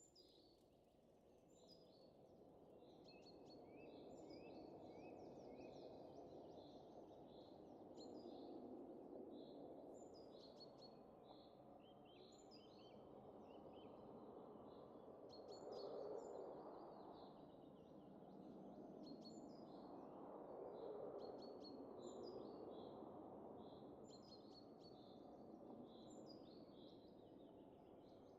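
Faint winter wind blowing in slow gusts that swell and fade, with small birds chirping over it again and again.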